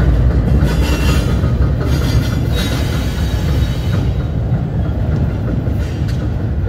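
A train running past on the nearby tracks: a loud, steady rumble with a few metallic clanks from the wagons.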